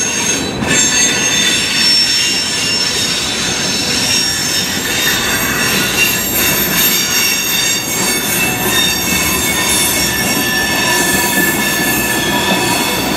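A freight train of tank cars rolling steadily past, its wheels running on the rails with a continuous high-pitched wheel squeal over the noise of the cars.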